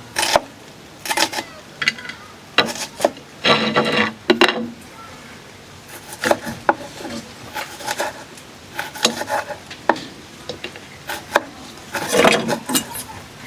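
Irregular scraping and rubbing strokes with light knocks and clicks, like rough material being worked by hand.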